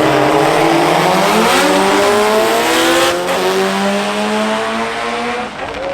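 A car engine revving hard under acceleration, its pitch climbing steadily for about five seconds before the sound drops away near the end.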